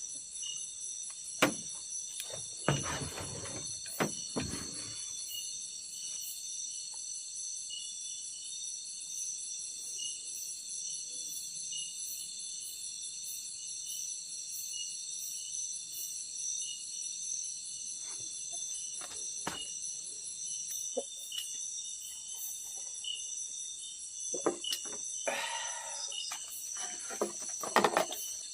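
Steady, high-pitched chorus of night insects, crickets among them, with a few knocks and rustles near the start and again near the end.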